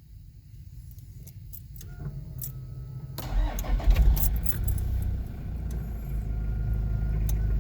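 Toyota Hilux Surf engine cold-started after sitting for 5 or 6 days: keys click in the ignition and the starter cranks. The engine catches about three seconds in, flares briefly and settles into a steady idle, starting without trouble.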